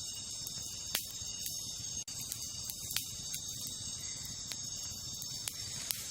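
Wood campfire crackling, with sharp pops about a second in, at about three seconds, and twice near the end. A steady chorus of crickets runs underneath.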